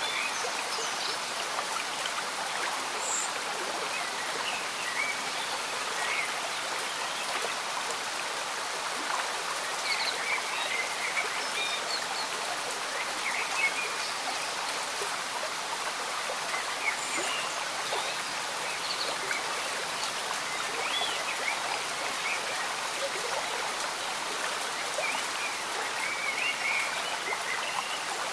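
A slow-moving stream bubbling and trickling steadily under light rain, with small bright gurgles and drops scattered throughout.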